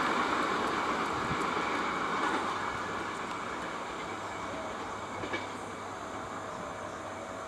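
Wheels of a departing train's last coaches rolling on the rails, the rumble fading steadily as the train draws away.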